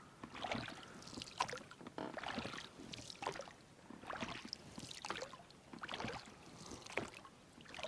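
Rowing a small boat: oar strokes splashing and dipping in the water, about one stroke a second.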